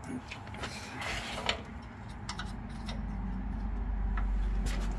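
Light metallic clicks and knocks of hand tools adjusting the tension on a drill's worn drive belt, with a low steady hum growing louder over the second half.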